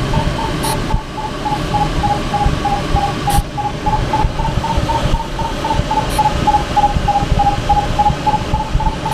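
Glider variometer beeping, about five short beeps a second, its pitch drifting slowly up and down, over a steady rush of air noise in the ASH 25's cockpit. The beeping tone is the sign that the glider is climbing in lift. A few sharp ticks sound about one, three and six seconds in.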